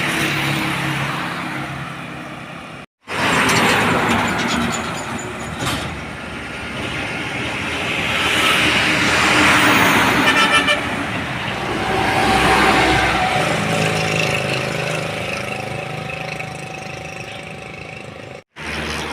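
Large trucks passing close by on a road, their diesel engines running over tyre noise. The loudest pass swells up about ten seconds in. The sound cuts out abruptly twice, for a moment each time.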